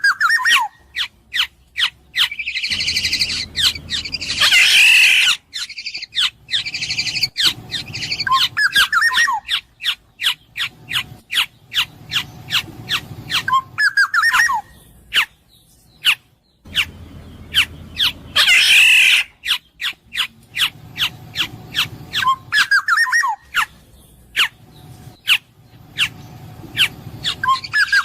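Black-naped oriole calling: short whistled phrases and harsh squawks, mixed with many sharp clicks. The same sequence repeats about every fourteen seconds.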